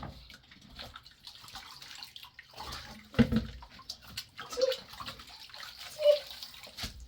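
Water splashing and pouring, with scattered clicks and a louder knock about three seconds in.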